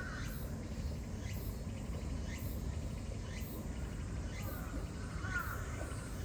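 Insects calling in a steady, repeating pattern of short chirps about once a second, over a constant low background rumble, with a brief bird call about five seconds in.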